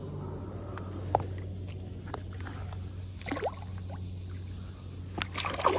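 Water dripping and lapping lightly against a kayak, with scattered faint ticks and a short run of knocks and splashes near the end.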